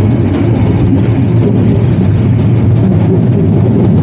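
Moving passenger train's steady loud rumble of wheels and carriage, heard from an open carriage door.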